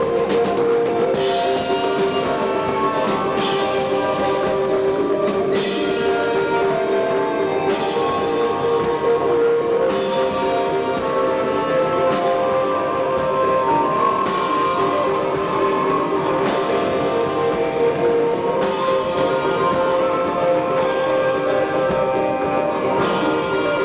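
Live instrumental band music: long held chords with drums underneath, and bright cymbal-like washes rising and falling every second or two.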